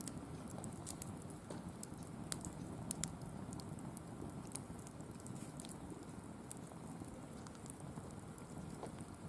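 Firewood burning in a wire-mesh fire pit: scattered sharp crackles and pops over a low, steady rumble, with a few louder pops about two to three seconds in.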